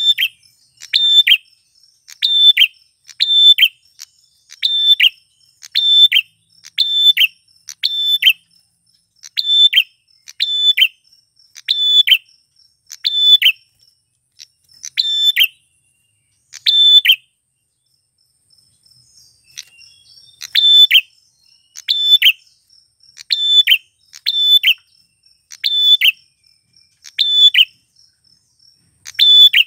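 Male prenjak klawu (a prinia) calling: a sharp, high chirp repeated about once a second, with a pause of a few seconds past the middle. A faint steady high insect-like tone runs underneath.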